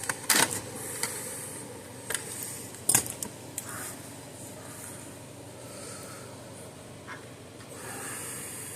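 Handling noise on a workbench: a few sharp clicks and knocks, the loudest just after the start and another about three seconds in, over a faint steady hiss.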